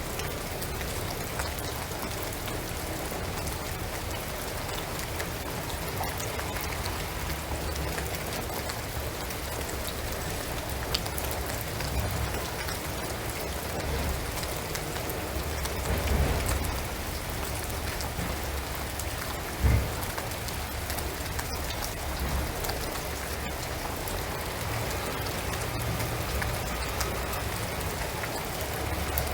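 Steady rain pattering on a shingled roof and on pine trees, with scattered drop ticks. There is a swell about halfway through, and a short low thump a few seconds later.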